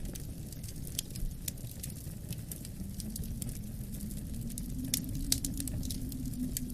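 Wood fire crackling with irregular sharp pops, the loudest about five seconds in, over a steady low wind rumble with a faint wavering howl.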